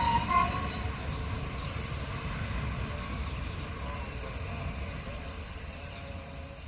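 The tail of a diesel multiple unit's horn, cutting off about half a second in, then the train's low rumble fading steadily as it moves away.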